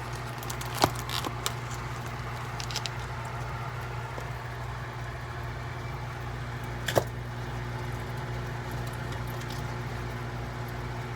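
A steady low hum, with a few sharp clicks: one about a second in and one about seven seconds in, plus a few fainter ticks.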